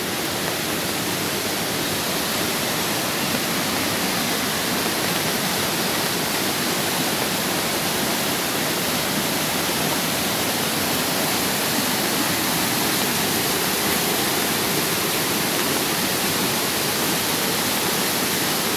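Waterfall pouring, a steady, really loud rushing noise with no change.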